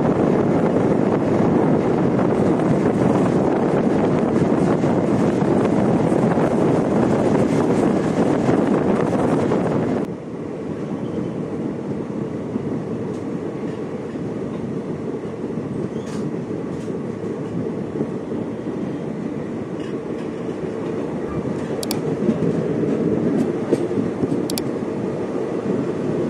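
Train running along the track: a steady rumble of wheels and carriage. The noise drops suddenly about ten seconds in and carries on more quietly, with a few faint clicks later on.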